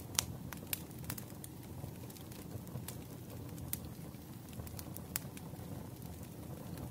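Wood fire crackling, with scattered sharp pops over a steady low rumble; the loudest pop comes just after the start.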